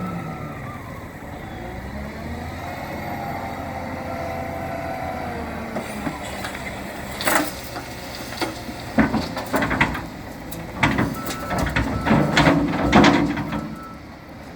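A tractor shovel loader's diesel engine running steadily, then a run of loud knocks and cracks from about six seconds in, the loader handling cut trees. Faint reversing beeps sound near the end.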